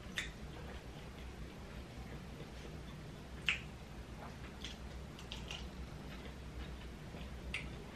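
Close-up eating sounds: scattered soft wet clicks and smacks from chewing, with one louder smack about three and a half seconds in, over a faint steady low hum.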